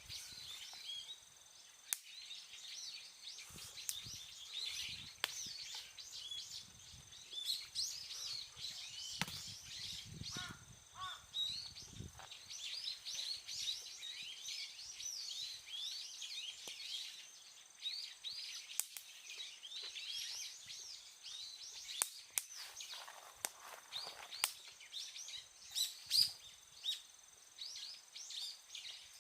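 Small songbirds chirping and twittering steadily, a dense run of short rising and falling notes, with a few sharp clicks scattered through.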